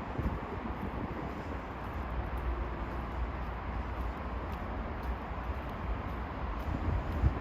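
Steady rumble and hiss of distant city road traffic, with a faint hum coming in briefly partway through.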